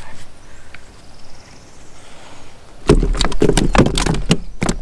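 A bass flopping on a catch board in a plastic kayak: starting about three seconds in, a quick, irregular run of loud slaps and knocks.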